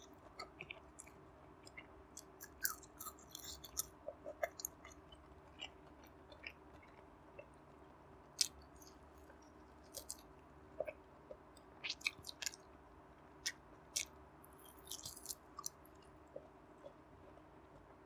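A person chewing and biting barbecued pork belly close to a clip-on microphone: irregular wet mouth clicks and crackles, with a few louder sharp smacks through the middle.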